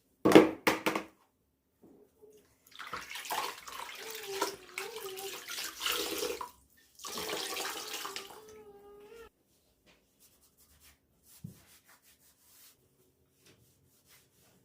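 Water running from a tap into a basin in two spells of a few seconds each, after a short loud clatter at the start; the pitch of the running water wavers and rises as the second spell ends.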